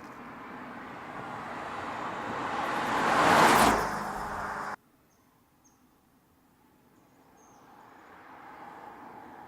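BMW 6 Series Gran Coupe driving past: engine and tyre noise swells to a peak about three and a half seconds in, then cuts off abruptly. After a short quiet with a few faint high chirps, the noise of a car approaching builds again.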